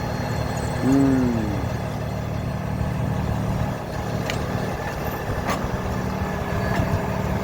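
Vehicle engine running steadily with a low rumble, heard from inside the cab. About a second in there is a short hooting tone that rises and then falls.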